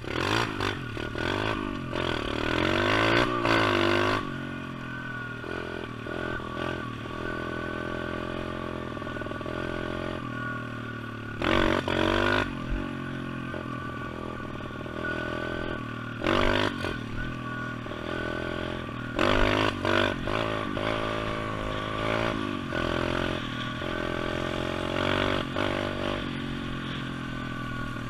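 Pit bike engine running, revving up and easing off in several bursts between steadier stretches.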